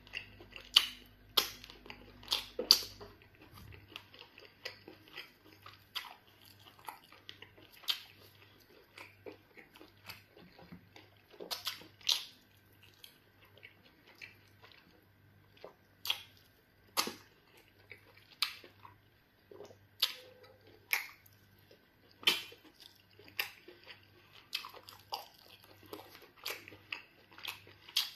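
Close-up mouth sounds of a man eating fufu and chicken black soup by hand: wet chewing with sharp, irregular smacks, several a second at times.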